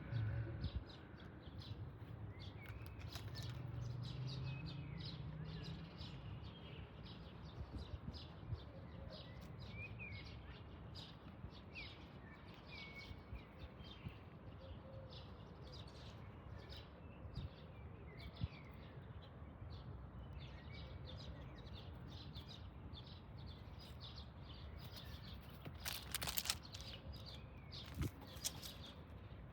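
Small birds chirping and twittering faintly over a low, steady background rumble. A brief louder rustling noise comes about three-quarters of the way through.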